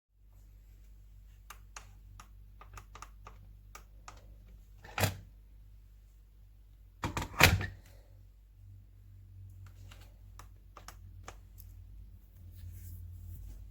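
Handling noise: scattered small clicks and taps, a knock about five seconds in and a louder clatter of knocks around seven seconds, over a low steady hum.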